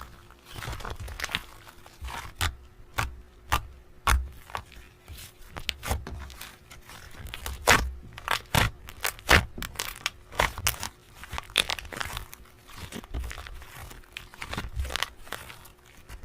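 Close-up eating sounds of a soft, fluffy cupcake: irregular tearing, crinkling and small crackly clicks as it is pulled apart and chewed.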